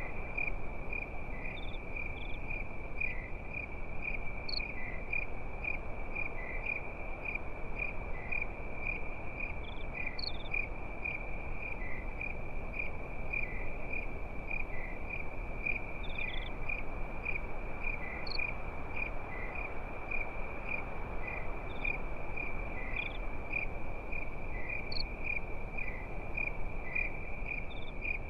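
Crickets chirping at night: a steady, high-pitched run of even chirps, with a few short higher calls every few seconds, over a constant low hiss.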